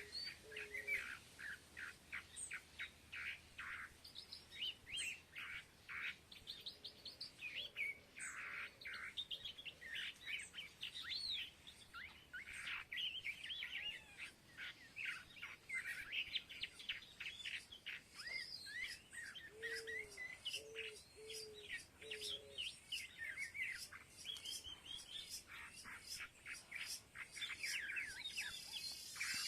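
A flock of small birds chirping, a dense overlapping chatter of short high calls throughout. Twice, a few short low-pitched calls break in: right at the start, and a group of four about two-thirds of the way through.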